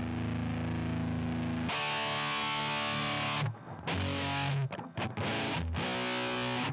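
Electric guitar played through a CoolMusic Insane Distortion pedal, heavily distorted. A held chord rings for a little under two seconds, then a new chord and a riff broken by several short, muted stops.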